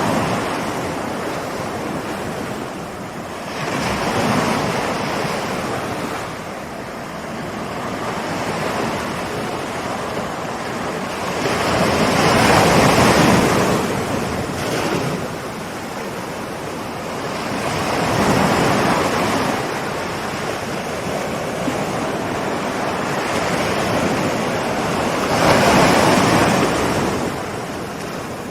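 Ocean waves rolling in and breaking, a surge swelling up every six or seven seconds over a steady wash of surf.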